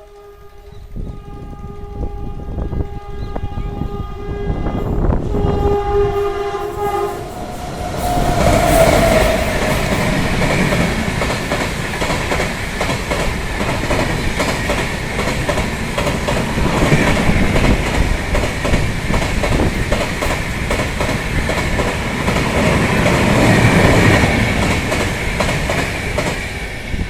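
WAP-7 electric locomotive's horn sounding a long blast as the express approaches, lasting about seven seconds. The train then rushes through at full speed, with the loud rumble and fast clickety-clack of the coaches' wheels over the rail joints continuing until near the end.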